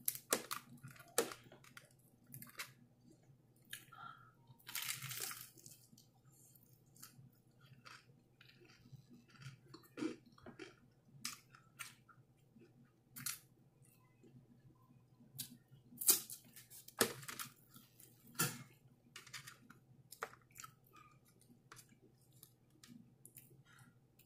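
A person chewing crispy fried chicken, with irregular crunches and sharp crackles from the breading between quieter wet chewing.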